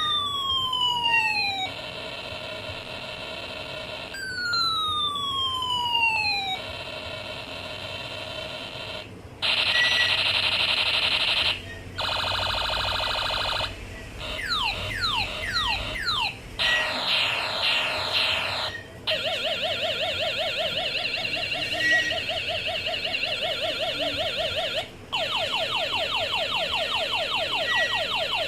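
Electronic sound chip of a 1990s toy cycling through its built-in siren and alarm effects. It plays falling whistle sweeps, steady buzzing tones, fast repeated zapping sweeps and warbling alarm trills, each lasting a few seconds and switching after a short gap.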